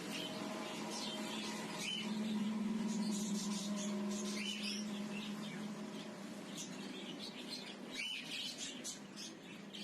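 Many caged small birds chirping and calling together in short, overlapping chirps, over a steady low hum that is loudest a few seconds in.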